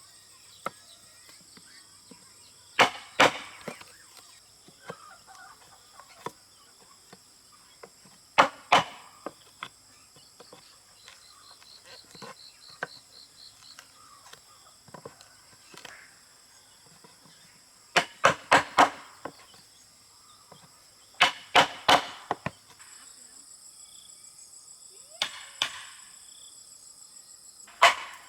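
Sharp blows on wood in short bursts of two to four strikes, with pauses of a few seconds between bursts. Insects drone steadily behind them.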